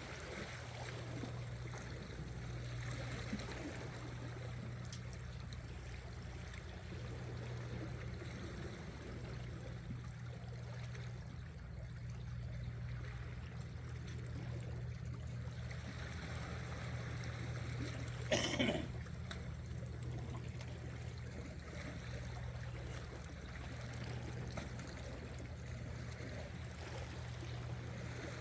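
Seawater lapping and trickling among shore rocks, with a steady low hum underneath. A brief rustling knock stands out about eighteen seconds in.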